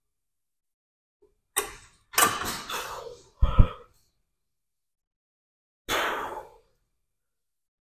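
Gym weight-training sounds during a set: several short noisy bursts and one heavy low thud about three and a half seconds in, the loudest sound.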